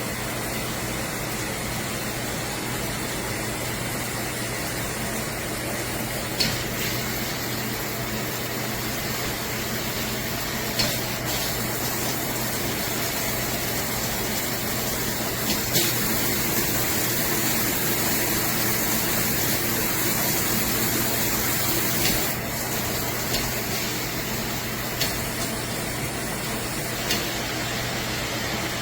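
Water spraying steadily from a 5-setting fixed shower head, with a few short clicks. The spray grows louder and hissier for several seconds past the middle.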